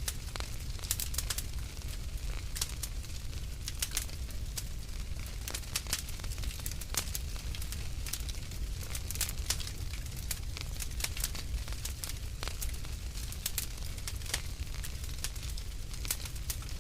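Wood fire burning in a fireplace: dense, irregular crackles and sharp pops over a steady low rumble of the flames.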